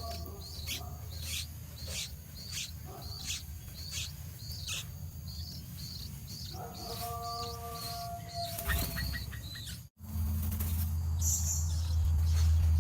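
A bird chirping over and over, short sharp calls about twice a second, with a held droning tone under it for a couple of seconds. Shortly before the end the audio cuts out briefly and a louder, low, steady drone takes over.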